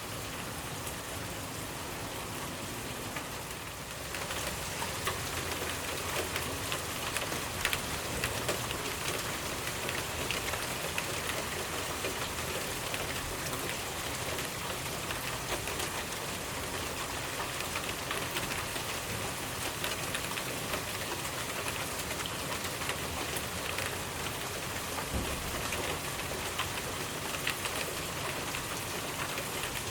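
Steady rainfall, with many small drops pattering on a surface. About four seconds in it gets louder and stays so.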